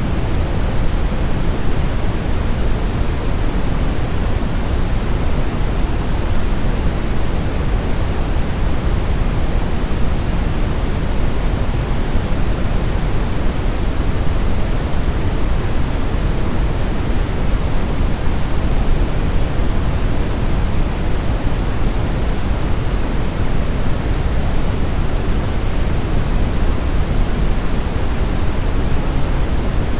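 Steady brown noise: an even, deep rushing hiss, strongest in the bass and falling off toward the treble, unchanging throughout.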